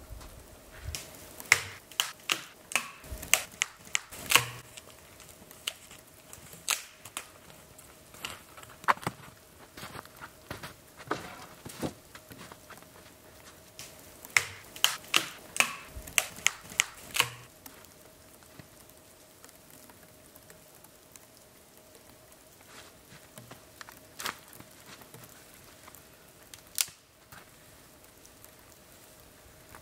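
Wood campfire crackling, with sharp, irregular pops and snaps that come in quick clusters, then thin out to a few isolated pops.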